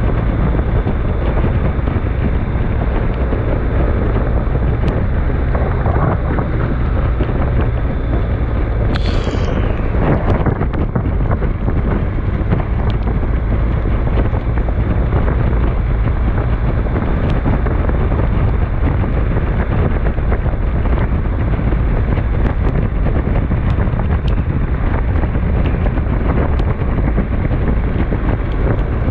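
Storm wind buffeting the microphone in a steady, loud low rumble, with a few faint ticks and a brief high falling sound about nine seconds in.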